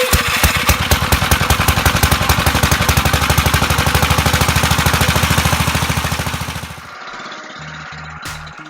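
Gravely tractor engine running, a loud, even train of rapid firing pulses. It stops about seven seconds in and music with held notes takes over.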